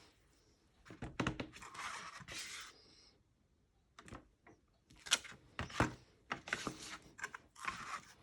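Scattered light taps and knocks with short stretches of rustling: hands working a rubber stamp, cardstock and embossing powder on a craft table.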